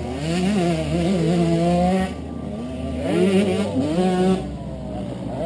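Kawasaki KX125 two-stroke single-cylinder motocross engine revving, its pitch rising and falling with the throttle in two loud spells of about two seconds and one second, dropping back between them.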